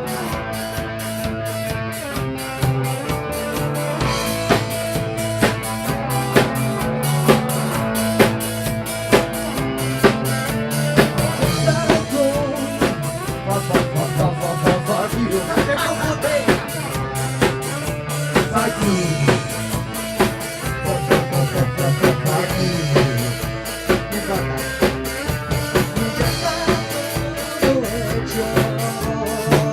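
Instrumental band music: a drum kit playing a steady beat with snare and bass drum under sustained pitched instruments and a wavering melodic line.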